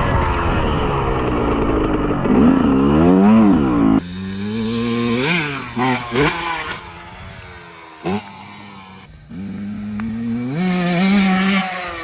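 110cc pit bike's four-stroke single-cylinder engine revving up and down as it is ridden: loud and close at first, then quieter with a few short, sharp blips of throttle, and climbing again near the end.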